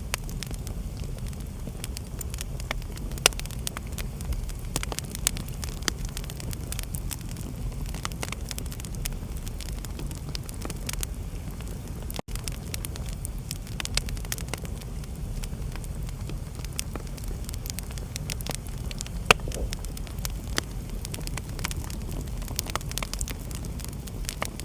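Wood fire in a fireplace crackling, with scattered sharp pops over a steady low rumble; two pops stand out, a few seconds in and about three-quarters of the way through. The sound drops out for an instant about halfway.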